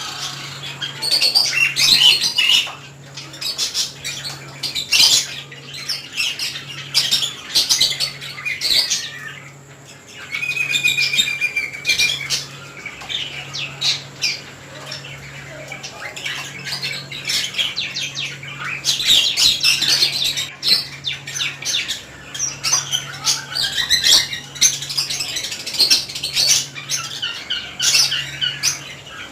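Budgerigars chirping and squawking in quick, overlapping calls, with a short lull about a third of the way through.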